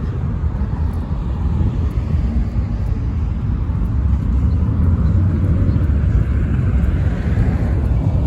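Low rumble of passing street traffic engines, swelling louder from about four to seven and a half seconds in as a vehicle goes by.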